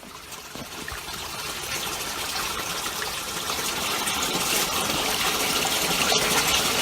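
Creek water rushing through a low-water crossing, a steady noise that grows gradually louder.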